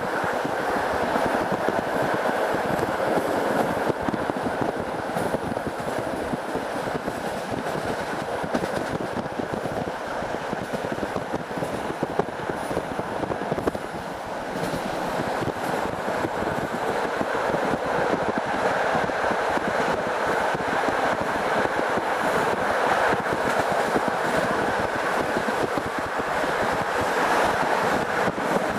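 Passenger train coach running at speed, heard from inside by the window: a steady rolling noise of wheels on rails, with a few faint clicks from the track.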